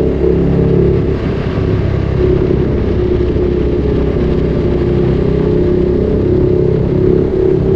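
Ducati Streetfighter 848's L-twin engine through a Termignoni exhaust, running steadily at a fairly even pitch.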